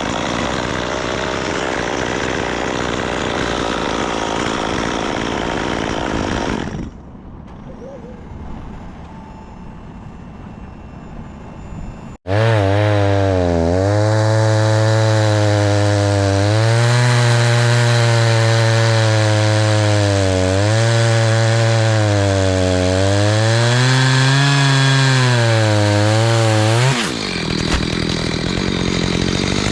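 Petrol chainsaw running and cutting wood, quieter for a few seconds in the middle. After an abrupt change about twelve seconds in, a loud engine drone whose pitch dips and rises again and again as it takes load, then back to dense saw noise near the end.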